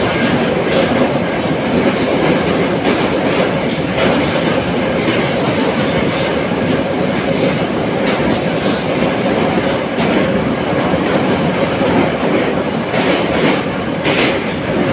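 An 81-717.5 metro car running at speed, heard from inside the car: a loud, steady rumble of wheels on rail with a steady tone through it and clicks from the rail joints.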